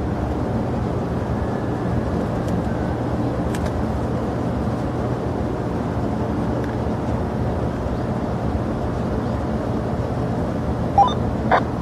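Steady jet airliner engine noise at the airport, an even rumble with a low hum.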